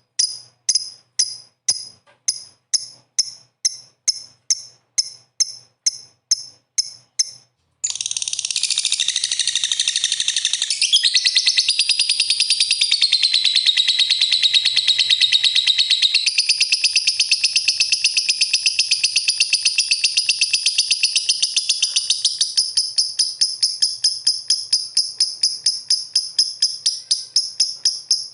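Lovebird calling: sharp, high chirps repeated about three times a second, then from about eight seconds in a long, unbroken, rapid high chatter lasting around fourteen seconds, before it falls back to rhythmic chirps near the end.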